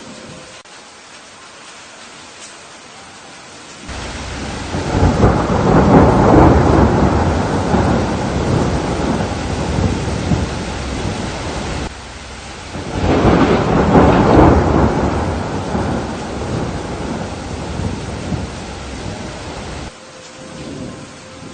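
Steady rain with two long rolls of thunder, the first starting about four seconds in and the second just after the first stops; each rumbles on for several seconds and cuts off abruptly.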